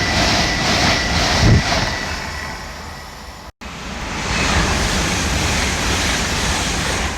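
A train passing through the station, its wheels clattering in a quick even rhythm over a rushing noise that fades. After a sudden break, a steady rushing noise rises and holds.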